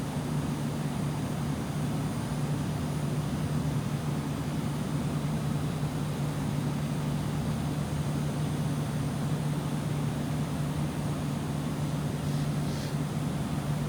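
Bryant ductless mini-split air conditioner running: a steady low hum over an even rushing of air.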